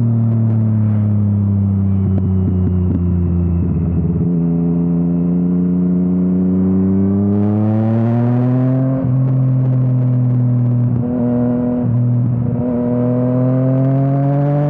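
Yamaha MT-09's three-cylinder engine through an Akrapovič exhaust, heard from the rider's seat: the engine note falls off as the bike slows, then climbs as it accelerates, with quick dips around the middle and near the end as the throttle is rolled off or a gear is changed. A rush of wind noise comes in briefly about halfway through.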